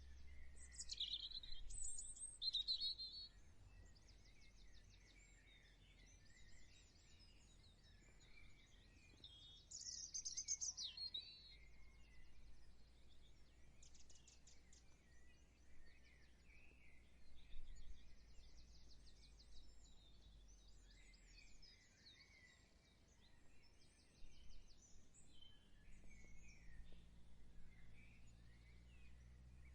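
Faint outdoor birdsong: several songbirds chirping and trilling, with louder sweeping calls near the start and again about ten seconds in, over a low steady hum.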